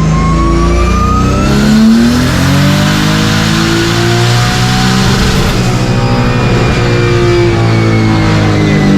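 Turbocharged drift car engine making a full-throttle pull on a chassis dyno: the revs climb over the first couple of seconds, stay high for several seconds, then fall away steadily near the end as the car coasts down.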